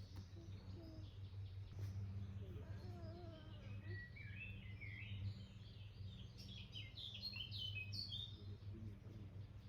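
Songbirds chirping and singing in quick, varied phrases, busiest from about four to eight seconds in, over a steady low hum.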